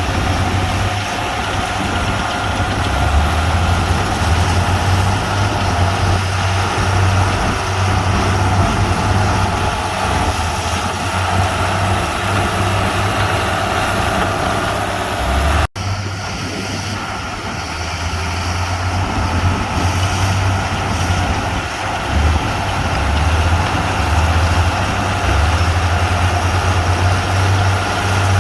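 Heavy diesel earthmoving machinery running steadily with a deep, constant engine hum, broken by one abrupt momentary cut a little past halfway.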